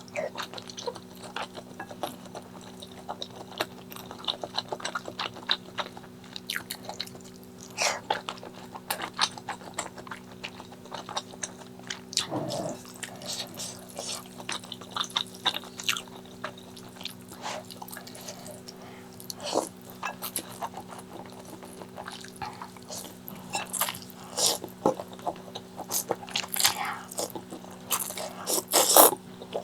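Close-miked eating: irregular wet chewing, biting and lip-smacking clicks, with a steady low hum underneath.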